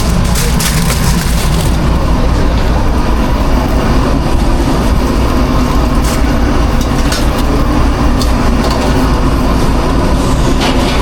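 Steady, loud, low machinery drone of a food truck kitchen running without a break, with scattered light clicks and clatters in the first second or so, around six to seven seconds in, and near the end.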